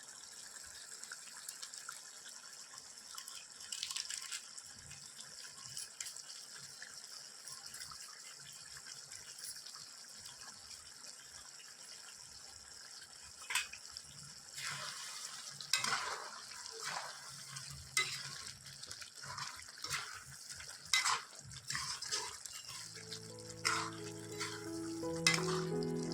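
Chicken sizzling as it fries dry in a pan. From about halfway through, a spatula scrapes and stirs it in short, irregular strokes. Background music comes in near the end.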